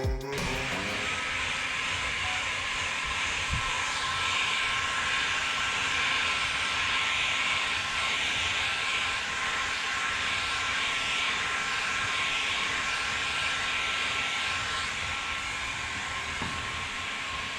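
Electric heat gun blowing steadily: a rush of hot air with a motor whine, used to heat and set wrap vinyl.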